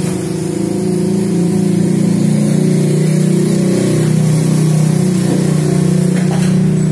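National Orbit F-EQ403-1 orbit ceiling fan running, its motor giving a steady, loud hum.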